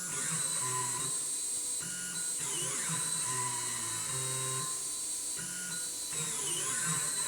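Stepper motors of the Viper CNC machine driving its axes through short test moves: a whining tone that changes pitch every half second or so, with brief gliding sweeps as the moves speed up and slow down, in a repeating pattern.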